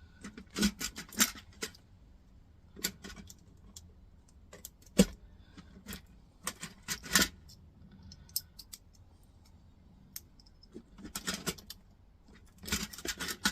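Small brass scrap pieces and other loose metal parts clinking and clattering as they are handled and set down, in scattered sharp clicks and short rattles. The loudest click comes about five seconds in.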